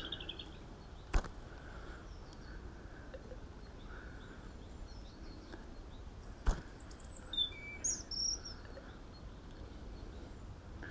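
Quiet lakeside ambience with birds chirping briefly past the middle, and two sharp clicks, one about a second in and one just past halfway.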